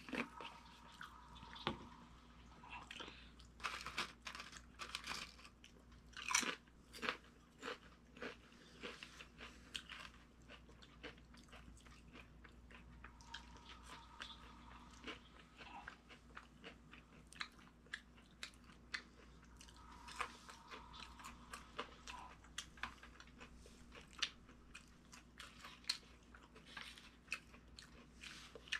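A person chewing and biting crisp, crunchy food: a long run of sharp crunches and chews.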